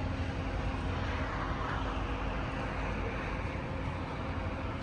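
Steady background noise of a large metro station hall: a low rumble and an even hiss, with a faint steady hum running under it.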